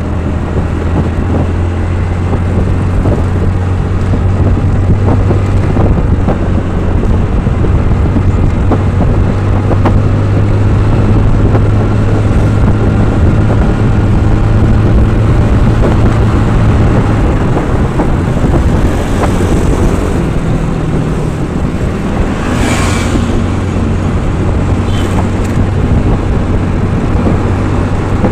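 Road vehicle engine running steadily on the move, with traffic noise around it and a short rushing sound about two-thirds of the way through.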